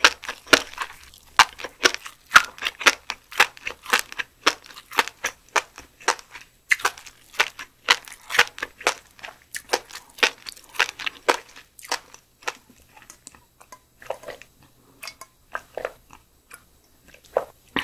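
Close-miked chewing of steamed lumpsucker roe: a dense run of small crisp crackles and wet clicks from the mouth, thinning out over the last few seconds.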